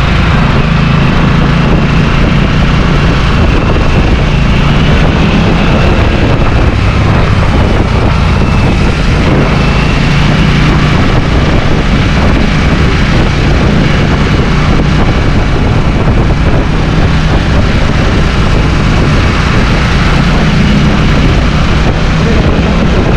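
Motorcycle engine running steadily under a loud, even rush of noise, its pitch drifting slightly now and then.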